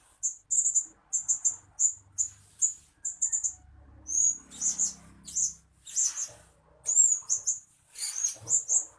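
Blue-crowned hanging parrot calling: a rapid series of short, high-pitched chirps, given in quick clusters of two to four.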